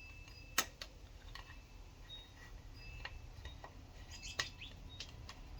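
Scattered light clicks and ticks, two sharper ones about half a second in and near the end, with a few faint short high chirps.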